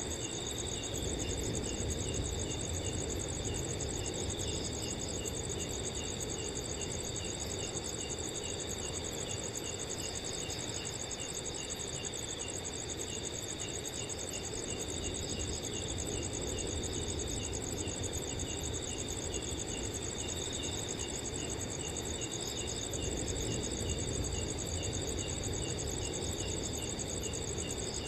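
Several crickets chirping steadily together: a continuous high trill, with a slower, evenly repeating chirp beneath it. Under the insects runs a soft, low wind noise.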